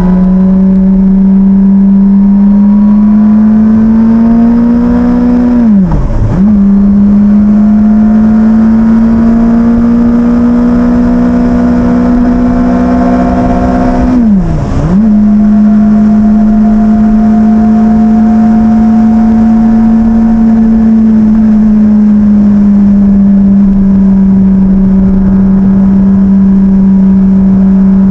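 Motorcycle engine running steadily at cruising revs, with rushing wind underneath. The engine pitch drops sharply and picks back up twice, about six seconds in and again about fifteen seconds in, as with a gear change or a brief roll-off of the throttle.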